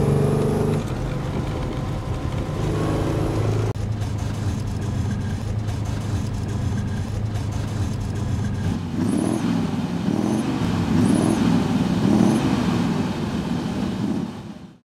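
The 1963 Apollo GT 3500's Buick aluminium V8, heard from inside the cabin, pulling through a tight turn with its pitch rising. After a cut about four seconds in, a steadier noise without a clear engine note.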